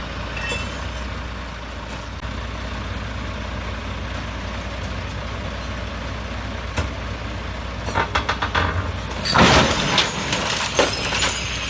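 A heavy vehicle's engine running steadily. About eight seconds in comes a rapid run of knocks, then a loud burst of clattering noise about a second later, with a few more knocks after it.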